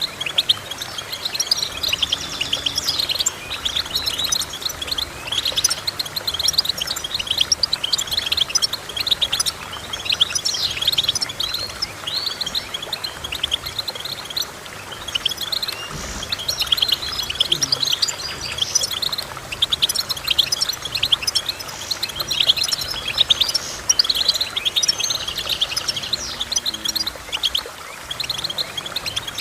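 Small songbirds singing in a dense, continuous twittering of rapid high chirps and short trills.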